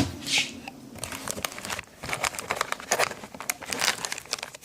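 Packaging crinkling and rustling as hands rummage through a box, with scattered short clicks and crackles.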